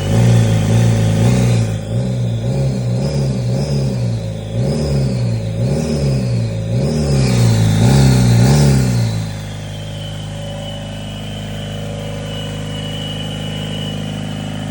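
Toyota 3L four-cylinder diesel running after an injector pump replacement, its engine speed rising and falling over and over, then settling to a steady idle about nine seconds in. It runs, though by the owner's word it is not healthy after the valves hit the pistons.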